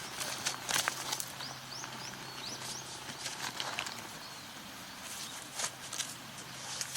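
A bird gives a quick run of short rising chirps about one and a half seconds in, over scattered light clicks and rustles.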